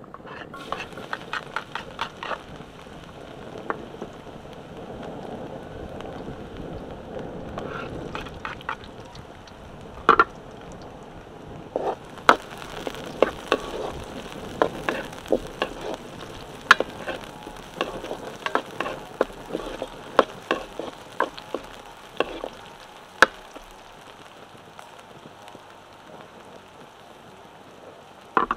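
Chopped garlic and sliced shallots frying in hot oil in a wok: a steady sizzle, with many sharp clicks and knocks, thickest in the middle and fewer near the end.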